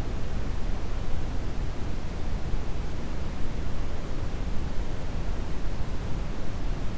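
Steady brown noise: a deep, even hiss, strongest in the low end, without any change.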